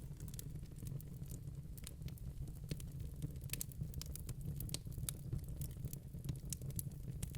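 Log fire in a fireplace burning, with a steady low rumble and many irregular sharp crackles and pops.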